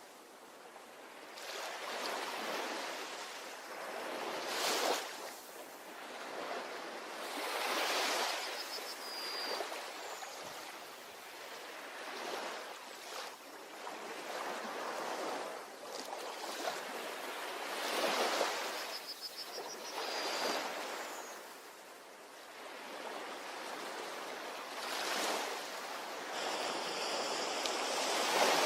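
Ocean surf washing onto a beach, swelling and ebbing every few seconds, with a few brief high chirps over it.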